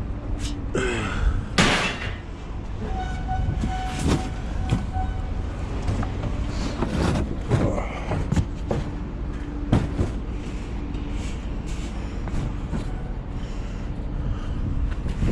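Pieces of scrap metal clanking and banging as they are handled and thrown, over a steady low rumble. About three seconds in, one piece rings on for a couple of seconds after being struck.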